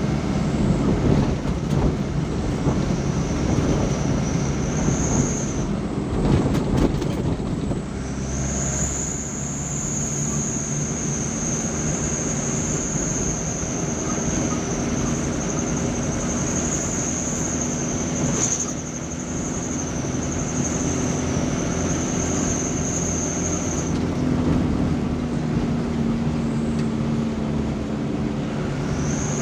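Steady engine drone and road noise of a moving vehicle, with a thin high whine that drops out twice.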